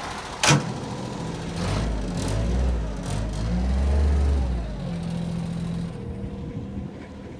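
Bobcat 553 skid steer's diesel engine running, with a sharp clack about half a second in. The engine speed rises and falls with a heavy low rumble, as if revved or put under load, then settles into a steadier, quieter run.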